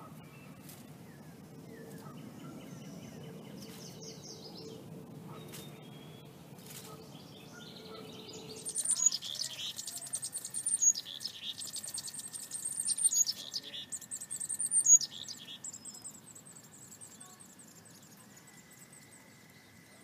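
Songbird singing in rapid, high trilled phrases from about nine seconds in, loudest near fifteen seconds. Before that there is only a low steady rumble, and a thin steady high tone runs under the song and after it.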